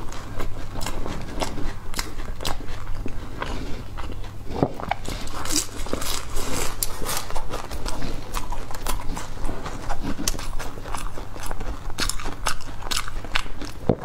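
Close-miked chewing of a flaky egg tart: a dense, irregular run of crisp crackles and wet mouth clicks.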